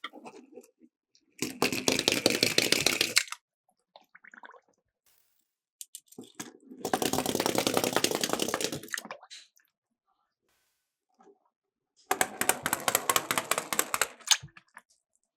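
Miniature toy cars rolling down a plastic track slope with a rapid clattering rattle, in three separate runs of about two seconds each.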